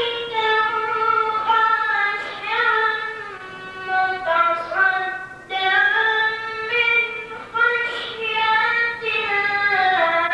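A child's voice chanting a Quran recitation in the melodic tajweed style, holding long, wavering, ornamented high notes with short breaths between phrases.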